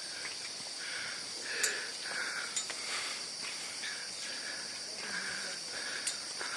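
Insects droning steadily in a high, continuous chorus, with short lower chirps repeating about once or twice a second and a few faint clicks.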